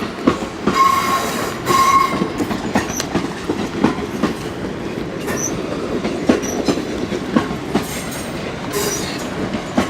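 Class 444 electric multiple unit arriving slowly, its wheels clicking over rail joints and pointwork under a steady rumble, with two short wheel squeals about a second in.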